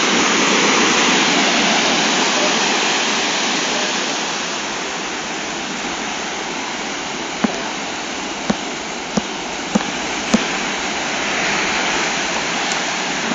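Storm surf from a typhoon washing in, a steady heavy rush of water that eases slightly a few seconds in. Five short sharp knocks come in the middle.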